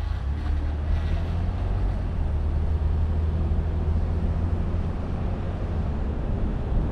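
A car driving at a steady pace: a constant low drone of engine and road noise.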